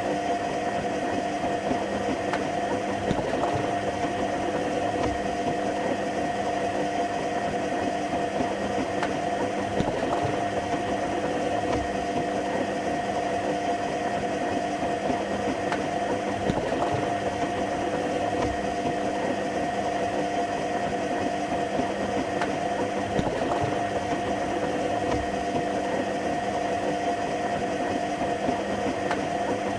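Washing machine running with its drum motor at a steady speed: an even mechanical hum with a constant whine that holds without change.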